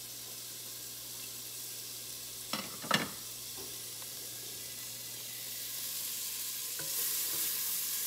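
Chopped garlic and ginger sizzling in a non-stick pot as they are sautéed and stirred with a wooden spatula. The sizzle grows louder in the second half. Two sharp knocks come about two and a half and three seconds in, the second the loudest.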